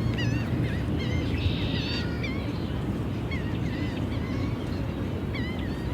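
Birds calling in a park, short curved chirps repeating every second or so, over a steady low background rumble.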